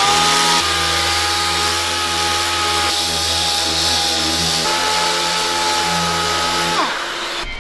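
An electric power tool's motor running at a steady high speed with a constant whine, then winding down as it is switched off near the end.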